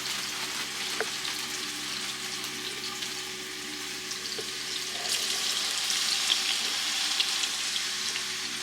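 Chicken pieces frying in hot oil in a skillet: a steady sizzle with scattered small crackles, growing louder about five seconds in.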